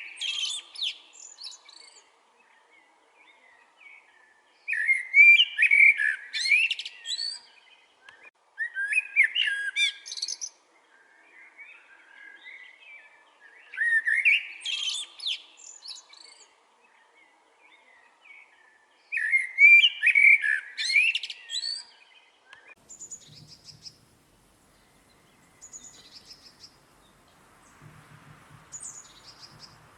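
A songbird singing a loud, warbling phrase of quick rising and falling notes, repeated about every five seconds. After the fifth phrase the song stops, and only faint, scattered chirps from other birds remain.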